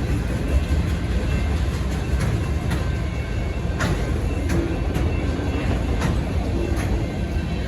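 Freight cars of a long manifest train rolling past at a grade crossing: a steady rumble with a sharp wheel click every second or so as the wheels cross rail joints.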